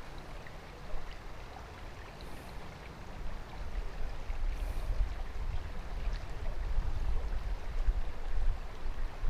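Small creek running steadily over stones, with a low rumbling that grows louder in the second half.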